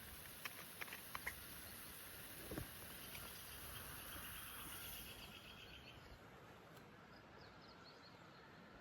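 Quiet outdoor ambience: a few small clicks and a soft knock, then a bird's rapid trill for about three seconds, with faint chirps near the end.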